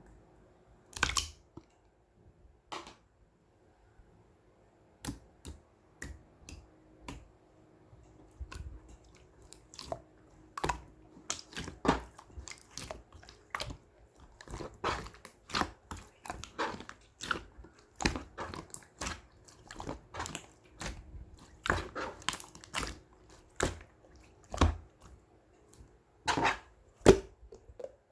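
Pink slime being squished and pressed by hand, making irregular sticky pops and clicks: sparse at first, then coming several times a second from about ten seconds in.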